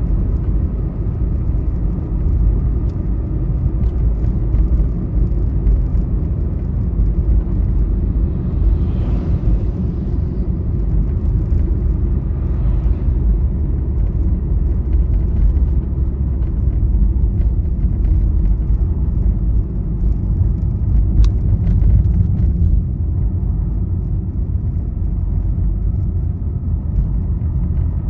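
Steady low road-and-engine rumble of a vehicle travelling along a highway, with two faint whooshes about nine and twelve seconds in.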